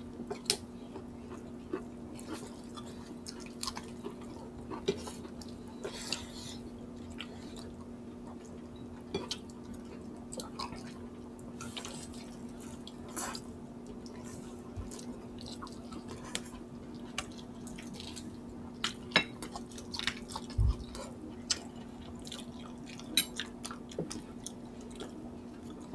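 Close-miked chewing and wet mouth clicks and smacks as chicken on the bone and rice are eaten with the hands, coming as scattered irregular clicks over a steady low hum. A single low thump comes about two-thirds of the way through.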